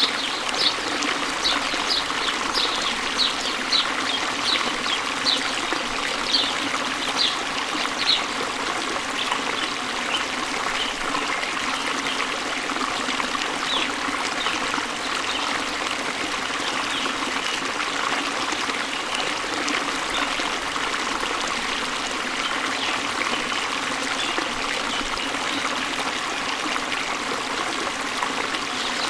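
Shallow stream babbling steadily over stones. A bird calls over it, repeating short high notes about twice a second during the first eight seconds or so, then more faintly and sparsely.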